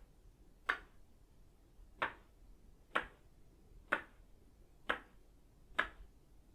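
Itauba-wood Tok-Sen mallet striking its wooden peg: six sharp wooden knocks, about one a second, each with a short hollow ring.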